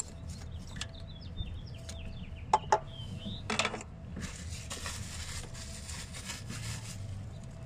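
A small bird chirping in a quick run of short notes, then two sharp clicks close together as the purge valve is unclipped from its mounting, followed by a few seconds of hiss.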